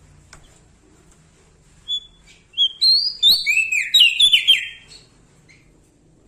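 Small songbird singing: a single short note about two seconds in, then a rapid, loud phrase of slurred, partly falling whistled chirps lasting about two seconds.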